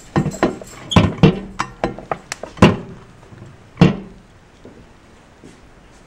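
Plastic steamer box being handled and set down, giving a quick run of hard knocks and clatters over about four seconds, the loudest four spread roughly a second apart.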